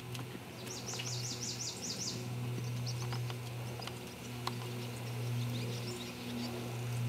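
A bird sings a quick run of about eight falling chirps about a second in, over a steady low hum, with a few faint soft thuds of horse hooves on arena sand.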